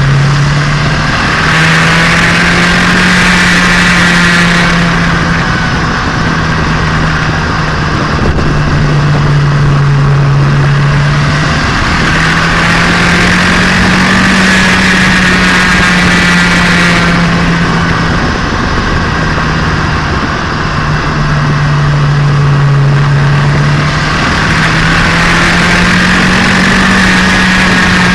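Turbocharged Nissan Micra engine heard from inside the car on a drive while its freshly rebuilt engine is being run in. The engine note steps up and down as the revs change, and a brighter, rougher layer swells over it three times, for a few seconds each, as the engine is worked harder.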